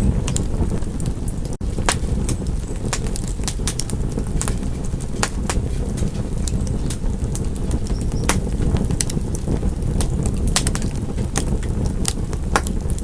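Wood fire crackling in a fireplace: irregular sharp pops and snaps over a steady low rush of the flames, with a momentary gap in the sound about a second and a half in.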